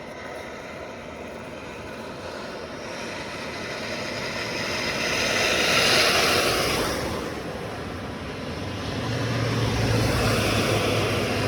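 Motorcycle riding on a wet road, with steady wind and road noise. The noise swells to a peak about halfway through and eases off, then a steady low hum comes in near the end.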